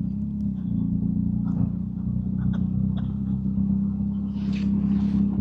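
BMW R1250 GS Adventure's boxer-twin engine running steadily under way, a low even hum.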